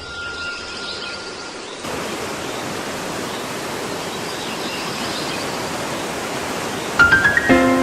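Rushing whitewater river, a steady noise that grows louder about two seconds in. Near the end a quick rising run of notes leads into music.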